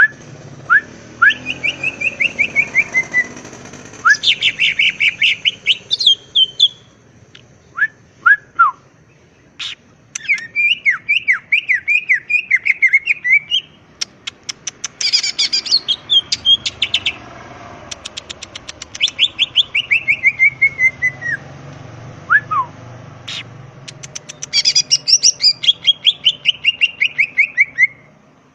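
Greater green leafbird (cucak ijo) in full, vigorous song: loud phrases of rapid chirped and whistled notes, several runs of quick notes sliding down in pitch, separated by short pauses.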